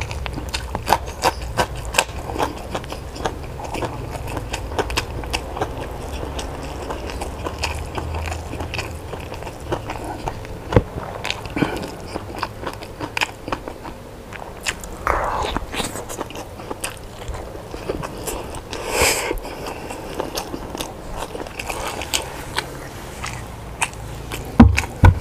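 A person eating: biting and chewing food with many short, sharp mouth clicks, and one loud thud near the end.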